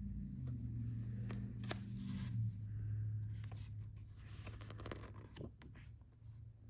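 Paperback manga volumes being handled and flipped through: paper rustling with scattered light clicks and scrapes, over a low steady hum that fades away toward the end.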